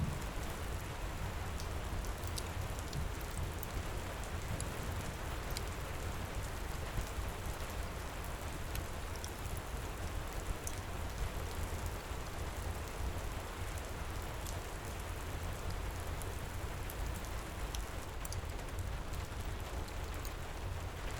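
Steady heavy rain pouring, with a low rumble beneath and scattered small sharp crackles from a fireplace.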